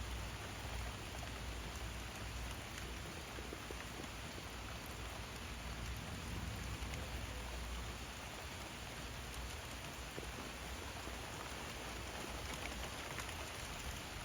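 Steady rain falling in a thunderstorm, an even continuous hiss, with a low rumble underneath through the first half.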